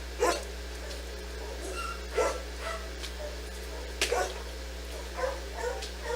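Dog barking: several short barks spaced about two seconds apart, the later ones softer, over a steady low electrical hum.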